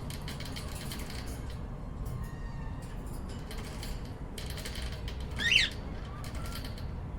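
Cockatiel giving one short chirp about five and a half seconds in, over several bursts of scratching and clicking from the birds foraging, with a low steady hum underneath.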